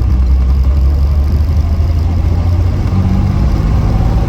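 Reliant Scimitar GTE SE5a's V6 engine running steadily at low revs, heard from inside the car.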